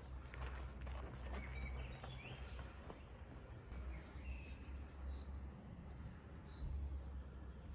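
Faint ambience: a few short bird chirps over a steady low rumble, with some light clicks in the first few seconds.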